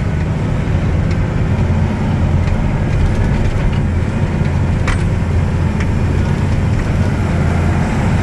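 Six-wheel-drive water truck's engine running steadily while driving, a low drone, with a sharp click about five seconds in.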